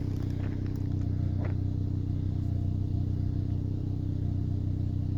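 Car engine idling steadily, left running to thaw the iced-over car.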